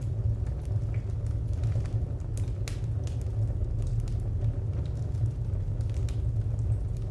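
Wood fire crackling: scattered sharp pops and snaps over a steady low rumble, one louder pop a little under three seconds in.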